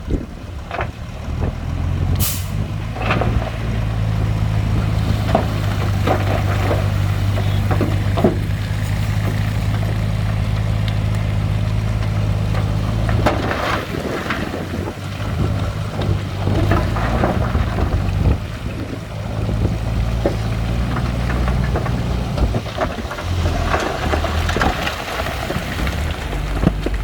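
Heavy diesel engine of earthmoving machinery running steadily under load, with scattered metallic clanks and knocks. There is a short hiss of air about two seconds in.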